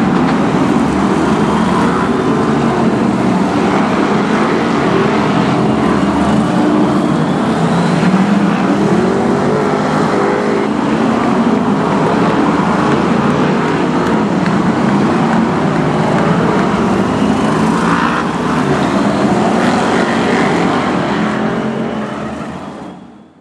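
Several BriSCA F1 stock cars' V8 engines running hard together on a shale oval, pitch rising and falling as they accelerate and back off through the bends. The sound fades out near the end.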